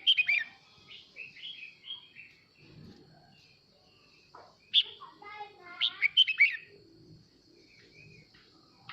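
Male red-whiskered bulbul singing short, bright chirping phrases, one burst at the start and a longer one about five to six and a half seconds in, with softer chirps between. A faint steady high tone runs underneath.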